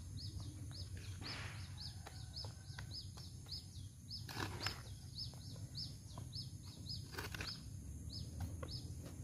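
A bird chirping over and over, short high chirps about three a second, over a low steady rumble. A few short noisy scrapes or rustles come through now and then.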